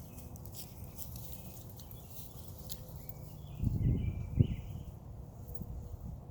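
Birds singing in the woods: short, repeated high chirps, over a steady low rumble of distant road traffic. A couple of dull thumps about four seconds in are the loudest sound.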